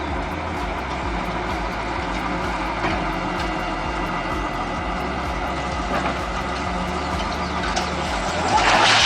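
Heavy vehicle engine running steadily, with a rise in loud, rushing noise near the end.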